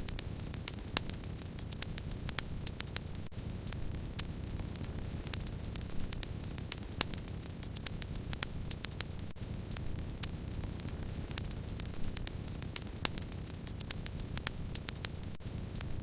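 Wood fire burning, with a steady low rushing bed and frequent sharp, irregular crackles and pops.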